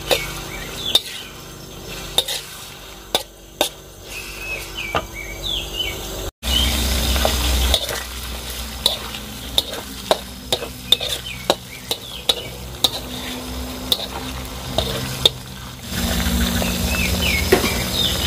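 Diced chicken sizzling as it fries in oil in a wok, stirred and turned with a metal spatula that clicks and scrapes against the pan many times. The sizzle gets louder after a short break about six seconds in.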